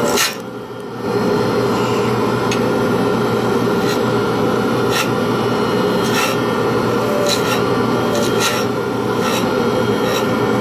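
Pen lathe running steadily while a pen blank is worked, with a scraping, rubbing noise and sharp ticks every second or so.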